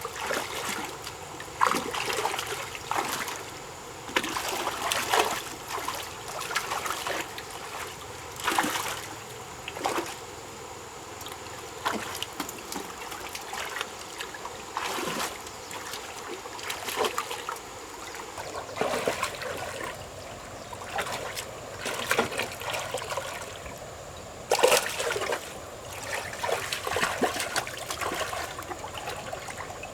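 River water splashing and trickling in short, irregular splashes every second or two.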